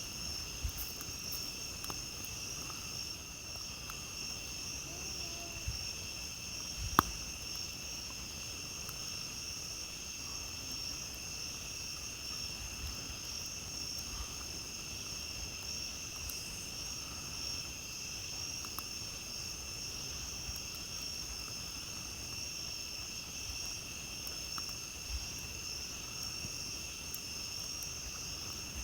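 A steady chorus of night insects trilling in a continuous high-pitched drone, with a few scattered crackles from a campfire and one loud sharp pop about seven seconds in.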